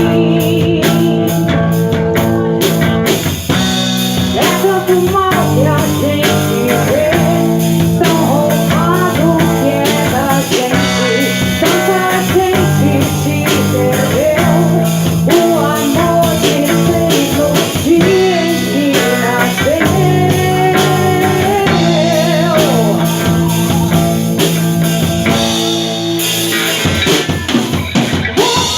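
Rock band playing a song live: drum kit and guitar with a singer's voice over them.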